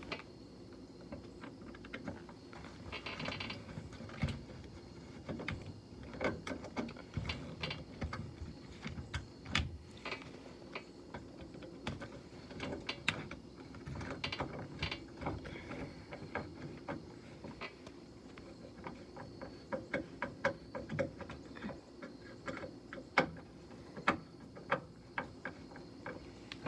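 A screwdriver working out the door armrest's screws: irregular small metallic clicks and scrapes, scattered throughout.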